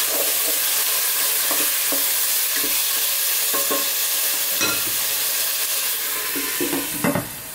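Chopped tomatoes and onions sizzling in hot oil in a pot while a wooden spatula stirs and scrapes through them. Near the end a glass lid is set down on the pot with a knock, and the sizzling becomes quieter under it.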